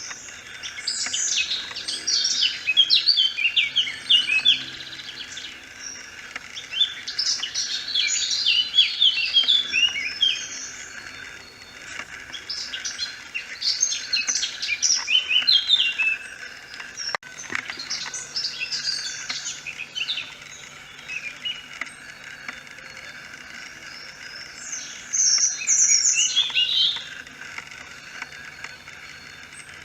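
Songbirds singing: bursts of rapid, high chirping phrases come and go every few seconds, over a faint steady background hum of the wetland.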